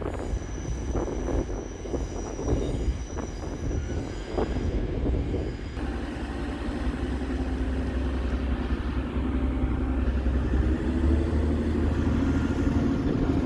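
Train arriving at a platform, with a thin high-pitched wheel squeal and scattered knocks from the wheels on the rails. About six seconds in this gives way to the steady diesel engine drone of a TransPennine Express Class 185 multiple unit moving slowly past close by, growing louder near the end.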